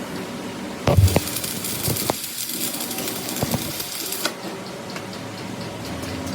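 Workshop machine noise running steadily, with a few sharp knocks. The loudest knocks come about a second in, and single ones follow at intervals.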